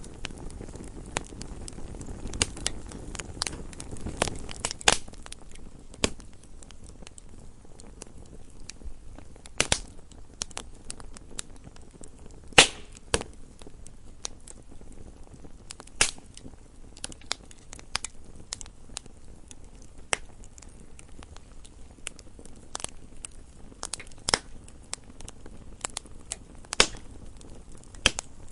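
Wood fire burning in a fireplace, crackling steadily with irregular sharp pops and snaps over a low hiss of flame; a few pops stand out louder than the rest.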